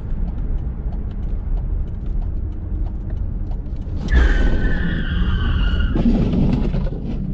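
Car engine running with a steady low rumble and faint regular ticking. About four seconds in, a high squealing tone, falling slightly, lasts about two seconds.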